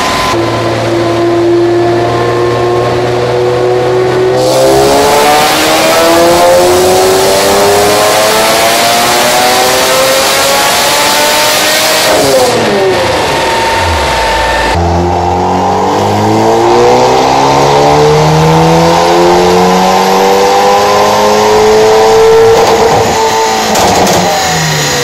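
Car engine on a chassis dynamometer making full-throttle dyno pulls. It holds steady for a few seconds, then the note climbs through the rev range over several seconds and drops off as the throttle is lifted, and a second pull climbs and falls the same way.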